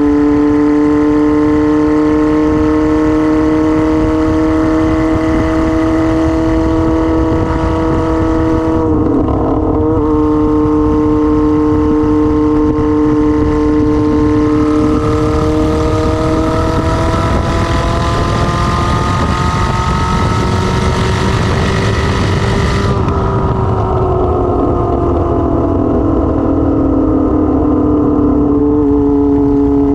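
Kawasaki ZR-7's 750cc inline-four engine running loud and open with no exhaust muffler, under way. The note dips briefly about nine seconds in, then climbs steadily in pitch. It falls off about three quarters of the way through and settles into a steady note.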